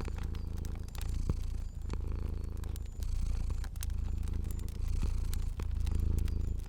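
A domestic cat purring, the purr swelling and easing with each breath about once a second, with the crackle and pops of a fire scattered over it.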